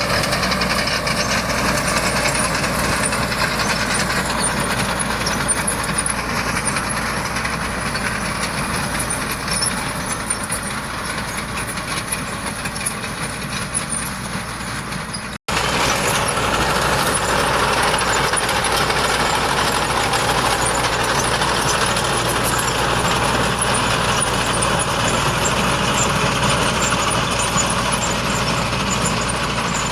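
Heavy diesel earthmoving machinery running steadily. The sound cuts out for an instant about halfway through, then resumes at the same level.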